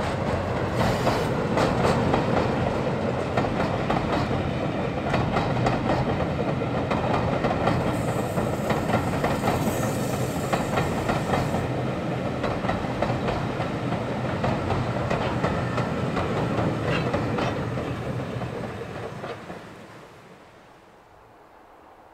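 Diesel-hauled passenger train passing over a bridge: a steady engine hum with the wheels clicking over the rail joints. It fades away quickly near the end.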